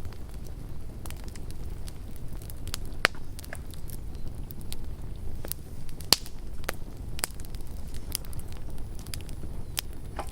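Campfire crackling: sharp, irregular pops and snaps, the loudest about three and six seconds in, over a low steady rumble.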